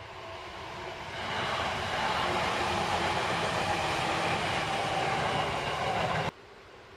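Electric commuter train on the Seibu Railway running past, its rumble swelling about a second in and staying loud. The sound cuts off suddenly near the end, leaving a faint background.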